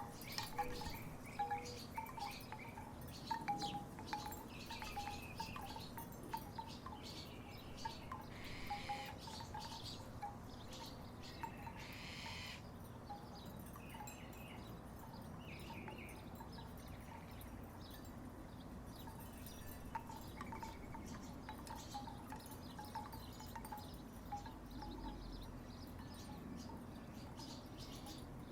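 Wooden tiki wind chimes knocking together in the breeze: scattered clusters of short clacks, busiest in the first ten seconds, thinning out, then picking up again about twenty seconds in.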